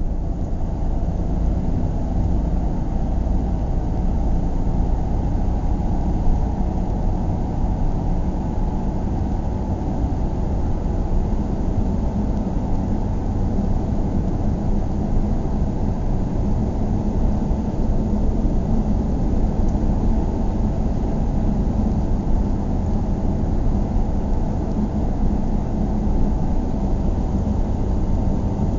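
A car driving at a steady speed: an even, low rumble of engine and road noise that does not change.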